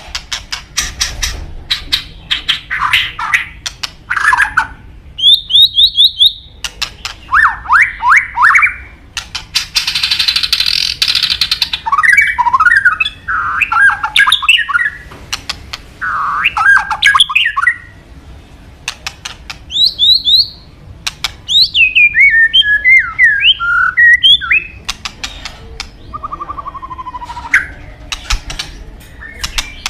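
White-rumped shama (murai batu) singing a varied song: loud whistled phrases that glide up and down, broken by fast clicking rattles and a harsh raspy chatter about ten seconds in.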